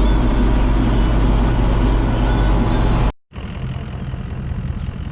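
Farm tractor engine running steadily under load with a deep rumble. It cuts off abruptly about three seconds in and is followed by a quieter, steady engine hum.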